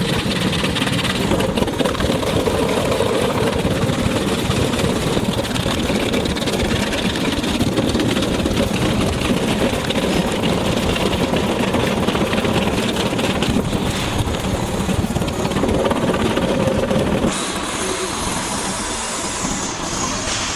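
Industrial stump grinder running loud and steady as its teeth shred stumps into wood chips. About three-quarters of the way through, the noise changes abruptly to a quieter, hissier machine sound.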